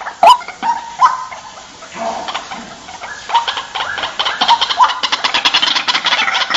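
White-breasted waterhen (ruak-ruak) calling. A string of short repeated notes, about two a second, fades away in the first second. Then a new series starts quietly and speeds up into a rapid, louder chatter toward the end.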